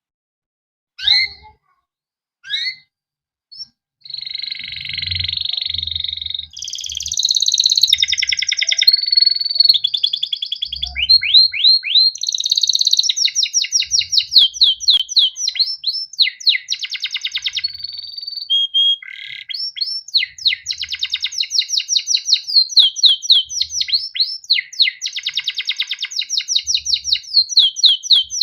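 Male canary singing a long song: a couple of single rising chirps, then from about four seconds a continuous run of fast trills and rolls of rapidly repeated rising notes.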